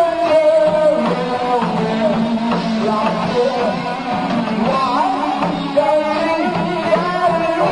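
Live rock band playing: electric guitar melody lines bending and sustaining over drums and bass.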